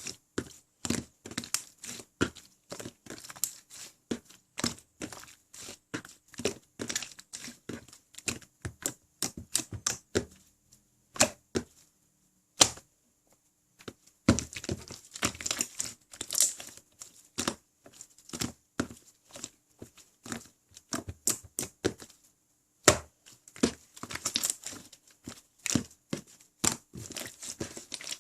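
Butter jiggly slime being squished and pulled by hand: a steady run of sticky crackling clicks and pops, with a pause of a few seconds about halfway through.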